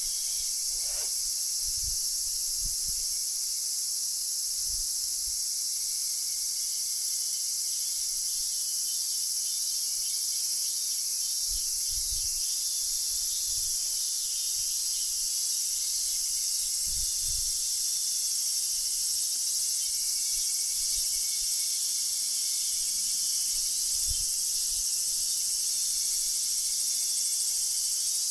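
Steady, dense high-pitched chorus of insects chirring, with soft low bumps now and then.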